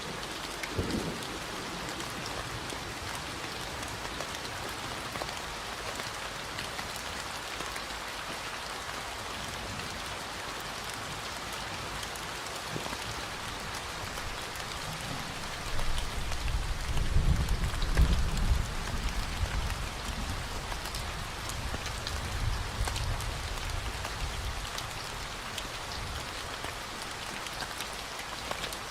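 Steady rain falling, with scattered drops ticking on a surface. A low rumble of distant thunder swells about halfway through, then fades out several seconds later.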